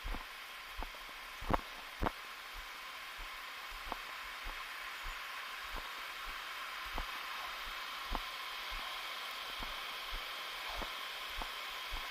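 Steady rush of waterfall water, with soft low thuds at walking pace, about every half second or so, that are the footfalls of the person carrying the camera.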